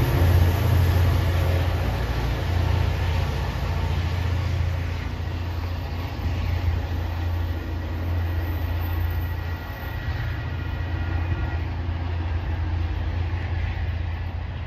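MBTA GP40MC diesel locomotive and its commuter coaches moving away, a steady low engine drone and rail noise slowly fading as the train recedes. The locomotive is an EMD with a 16-cylinder two-stroke diesel.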